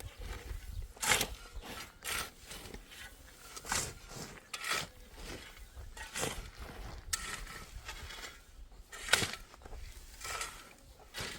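A series of irregular knocks and scrapes, roughly one a second.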